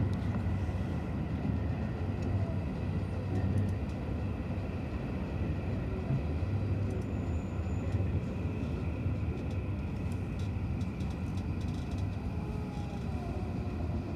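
JR E235-1000 series electric train running, heard from inside the passenger car: a steady low rumble of wheels on rail with a few faint tones and light clicks.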